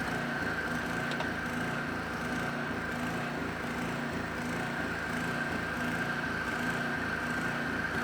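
A motor running steadily: a constant hum with a high, even whine above it, unchanging throughout.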